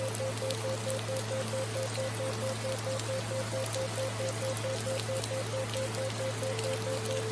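Steady rain falling, with scattered drop ticks, mixed with a continuous low hum and a mid-pitched tone pulsing on and off several times a second: a theta-wave brainwave tone track laid over the rain.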